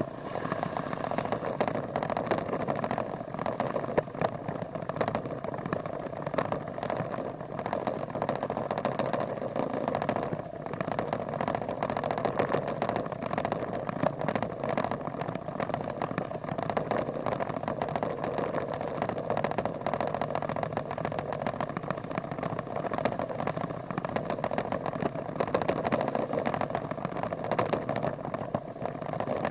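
Motorcycle on the move, a steady, unchanging mix of engine and road noise.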